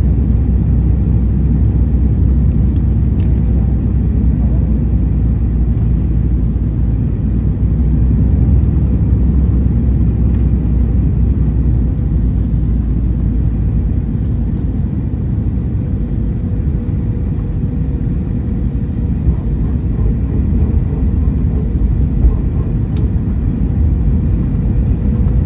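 Steady low rumble of an Airbus A321-200 airliner's engines and airflow heard inside the passenger cabin, easing slightly about halfway through.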